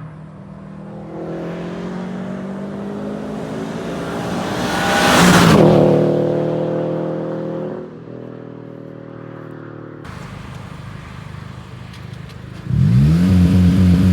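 Sport compact car with an aftermarket titanium exhaust driving past, its engine note swelling to a peak about five seconds in and dropping in pitch as it goes by, then fading. Near the end a loud exhaust revs up sharply and holds its note.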